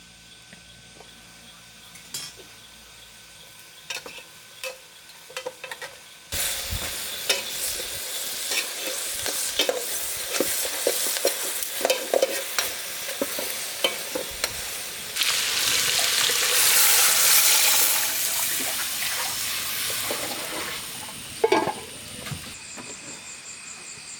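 Food frying in a hot pan: a quiet stretch with a few utensil clicks, then a sudden loud sizzle about six seconds in. The sizzle runs on with clicks and scrapes from stirring, swells louder for a few seconds past the middle, then eases, with a sharp knock near the end.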